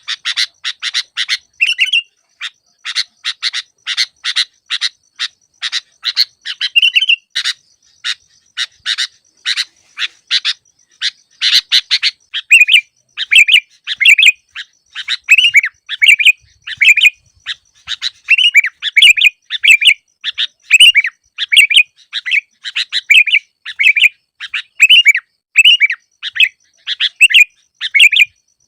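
Sooty-headed bulbul (kutilang) calling continuously: a rapid run of short, sharp chattering notes for the first dozen seconds, then short whistled phrases repeated about once or twice a second.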